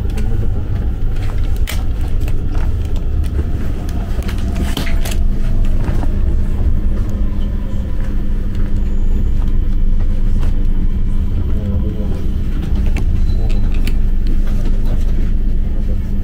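Passenger train running, heard from inside: a steady low rumble, with a steady hum joining about four seconds in and a few light clicks and knocks.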